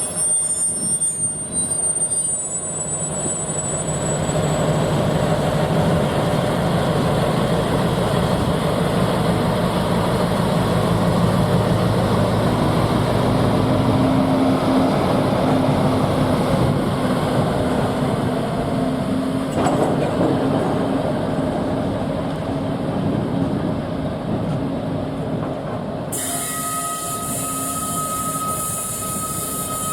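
Diesel freight locomotive and its train passing at close range: a steady loud rumble of the engine and of wheels on the rails, with a steady engine tone. Near the end the sound changes suddenly and a high steady tone comes in.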